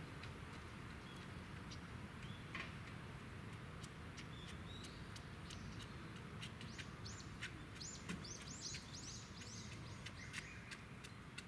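A bird calling: a quick run of about ten short, high chirps in the second half, with a few single chirps earlier. Underneath is a steady low background rush, with scattered faint clicks.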